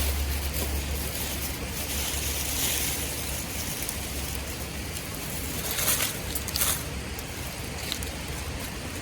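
Outdoor wind rumbling on the microphone over a steady hiss, with two brief rustling knocks about six seconds in.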